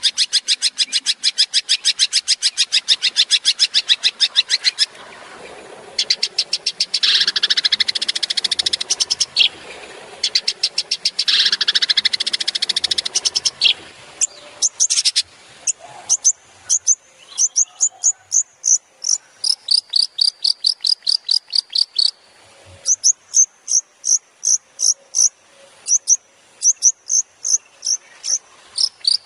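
Long-tailed shrike (cendet) singing: a very fast run of sharp repeated notes, then two spells of dense chattering, then evenly paced high, piercing notes about three a second to the end.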